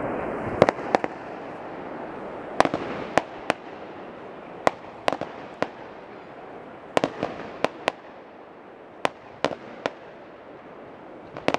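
Aerial fireworks going off: a long run of sharp bangs at uneven intervals, some close together in pairs and threes, over a steady hiss of noise.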